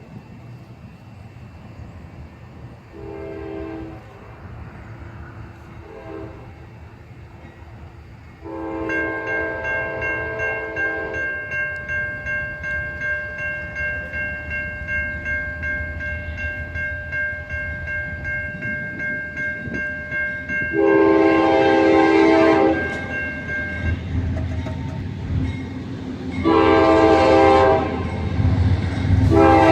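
Horn of an approaching CSX freight train led by two GE C40-8W locomotives, sounding several blasts for the grade crossing, the longest and loudest late on. From about eight seconds in, the crossing's Safetran type-3 electronic bell rings steadily at about two strokes a second, and near the end the low rumble of the locomotives grows as the train nears.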